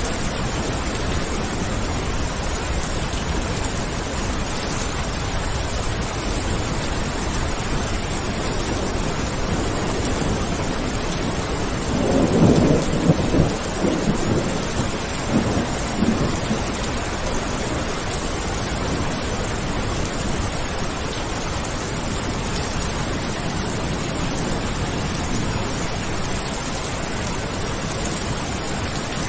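Steady rain falling, with a roll of thunder about twelve seconds in that swells several times over about four seconds before fading back into the rain.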